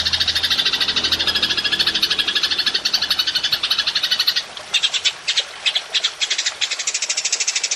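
Belalang emas (golden grasshopper) stridulating in a fast, high-pitched buzzing trill. About four and a half seconds in it breaks off, restarts in several short stuttering bursts, then runs steadily again.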